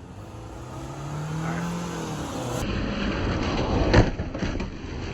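Car engine running and pulling away, its pitch rising, then a sharp crunch about four seconds in as the tyre runs over a carved pumpkin.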